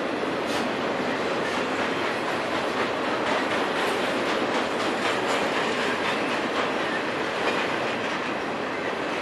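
Intermodal freight cars loaded with trailers and containers rolling past: a steady wheel-on-rail rumble with scattered short clicks.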